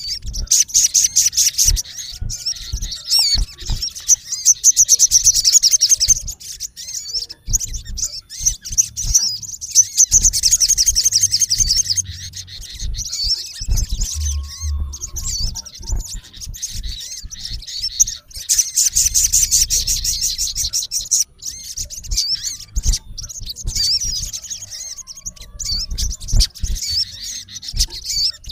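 Male olive-backed sunbird calling a rival: a stream of sharp, high-pitched chirps broken by several fast trills, around four to six seconds in, ten to twelve seconds in, and nineteen to twenty-one seconds in.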